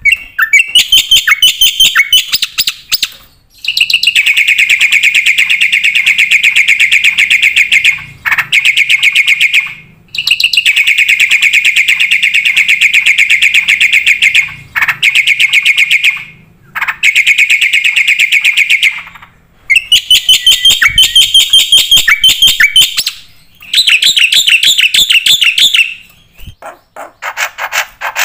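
Black-winged myna (jalak putih) singing loudly in long runs of fast repeated notes. Each run lasts several seconds, with short breaks between them, and near the end it turns to quieter, scattered notes.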